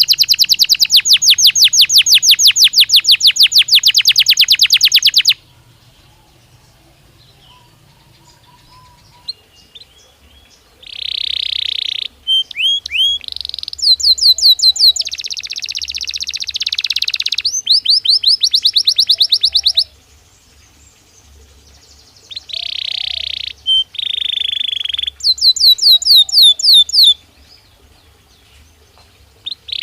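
Belgian canary singing in phrases of fast, high trills and buzzy rolls. A long trill of about six notes a second opens the song and stops after about five seconds. After a pause of about five seconds, the bird sings several more phrases, with short breaks of a second or two between them.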